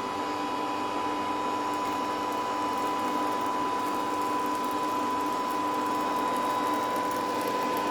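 Homemade vacuum cleaner's small electric motor and fan running steadily, with a constant whine over a rushing hiss.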